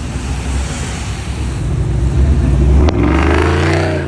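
Car engine rumbling, then revving up hard about three seconds in with a sharp crack as the revs climb.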